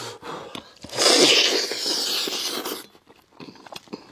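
A loud slurp of about two seconds, sucking sauce and flesh off a braised fish head, beginning about a second in and trailing off; light mouth clicks of eating around it.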